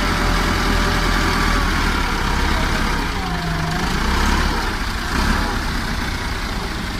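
Farm tractor's diesel engine running steadily with a deep, continuous rumble.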